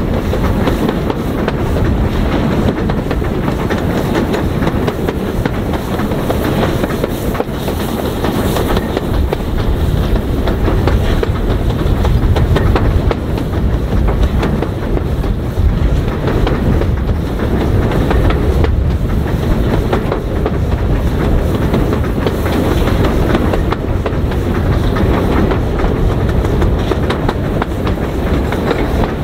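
Train running along the track: a steady rumble with clickety-clack of wheels passing over rail joints.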